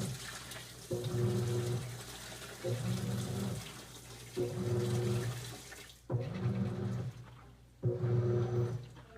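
Continental Aqua Saver 16 kg top-load washing machine agitating a wash load. The agitator motor hums in short strokes of about a second, roughly every second and a half to two seconds, with water sloshing in the tub between strokes.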